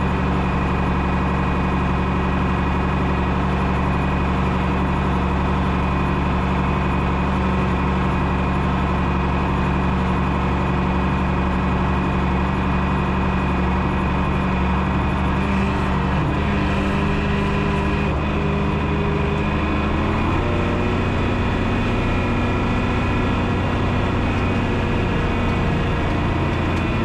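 John Deere 6030's six-cylinder diesel engine running steadily, its note shifting slightly about two-thirds of the way through.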